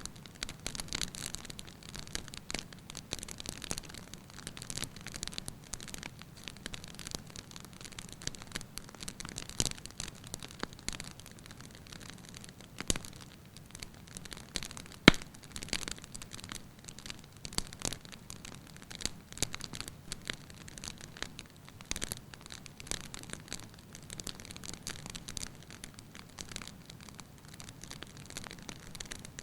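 Wood fire with logs burning in a fireplace, crackling and popping at irregular intervals over a soft low rumble of flames, with one sharp loud pop about halfway through.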